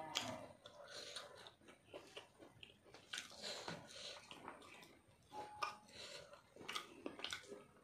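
A man chewing a mouthful of rice and chicken curry, heard as a run of irregular short clicks, while his fingers mix rice and curry on the plate.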